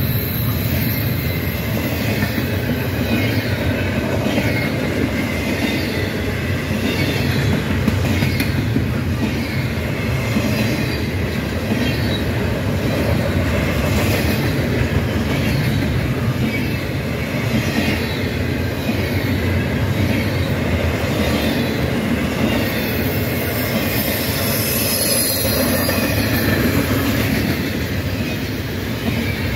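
Double-stack intermodal freight train rolling past at speed: a steady, loud rumble of steel wheels on rail, with regular clacks as the wheels cross rail joints and a thin wheel squeal in the second half.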